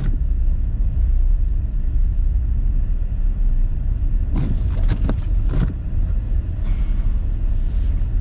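Steady low rumble of a car driving through snow, heard from inside the cabin.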